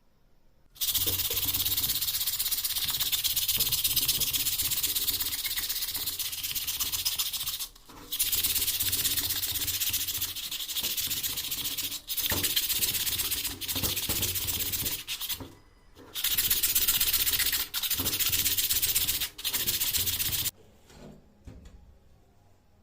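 A harsh hiss in five long stretches with brief breaks between them, stopping about twenty seconds in.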